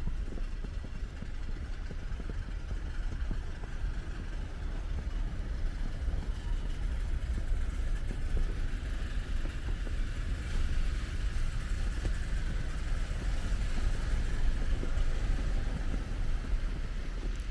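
Wind buffeting the microphone in a snowstorm as a low, uneven rumble, with a steady hiss of city street traffic behind it.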